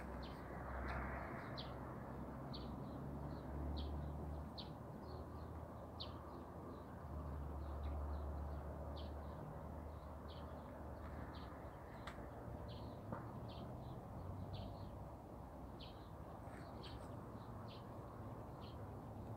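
Small birds chirping: short, high chirps repeating about once or twice a second, over a steady low background rumble.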